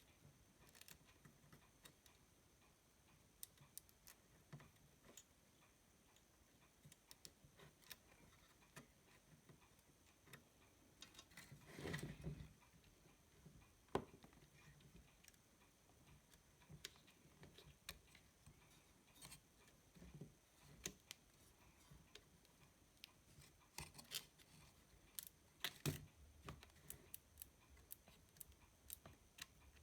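Mostly near silence, broken by faint scattered clicks and taps as ribbon cables and wire connectors are plugged back into a car stereo's circuit board. There is a louder knock about twelve seconds in, and a short run of clicks near the end.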